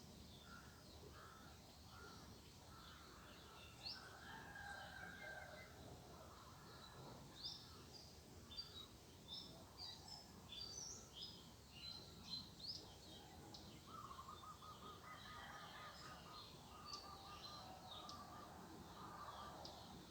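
Several birds calling faintly: a run of short, sharp high chirps, then a quick trill of lower notes about two-thirds of the way through.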